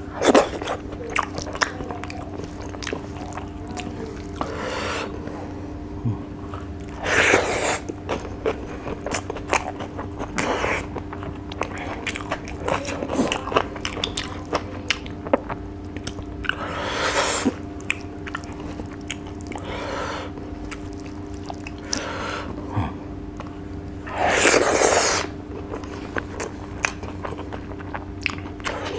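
Close-up chewing and crunching of rice and dried fish, with many small wet mouth clicks and three louder bursts about a second long. A steady low hum runs underneath.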